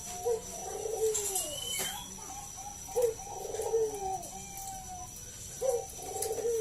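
Zebra dove (Bangkok-type perkutut) cooing: three rolling coo phrases about two and a half seconds apart, each a short opening note followed by a trilled run that drops in pitch.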